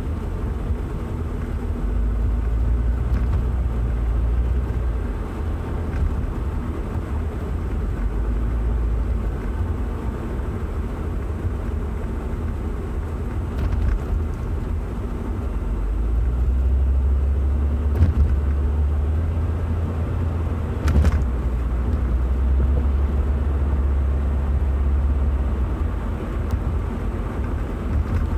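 A car's low driving rumble that swells and eases, with two short knocks about 18 and 21 seconds in.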